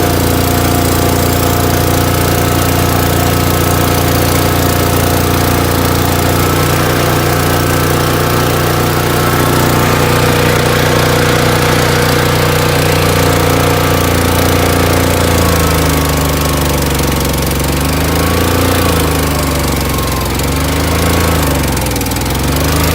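Boxer 530X mini skid steer's engine running at high throttle, steady at first; in the last third its pitch repeatedly dips and recovers as the machine is worked.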